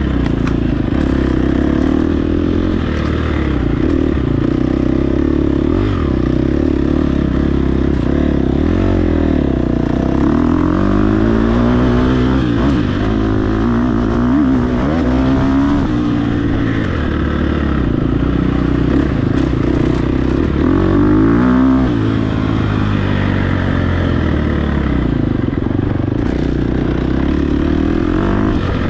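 Dirt bike engine at racing speed, its pitch rising and falling again and again as the rider opens and closes the throttle and shifts.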